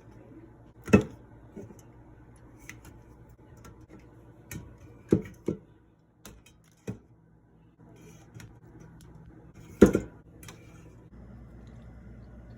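Beverage cans and bottles being set down and knocked against each other on fridge shelves: a series of irregular clunks and clinks, loudest about a second in and again near the end.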